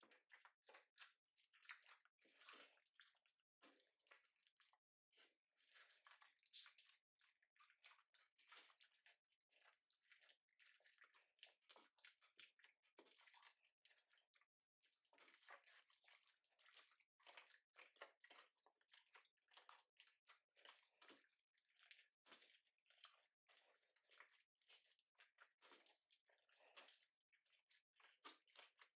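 Faint sticky squishing of a mixed batch of store-bought slime being worked, full of fine crackles and small popping sounds.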